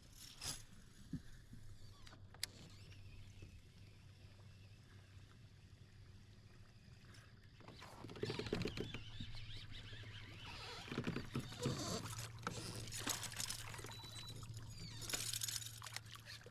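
Water sloshing and splashing around a kayak, with a few light clicks at first and louder, irregular splashing from about eight seconds in.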